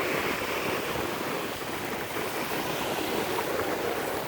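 Atlantic Ocean surf washing in and out around the legs of someone wading: a steady rushing hiss of water.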